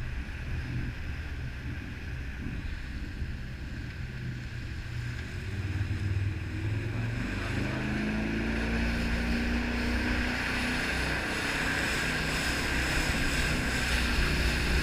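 Jet boat engine running under way, with the rush of water and wind. About six seconds in the engine note rises a little and the whole sound grows louder as the boat speeds up.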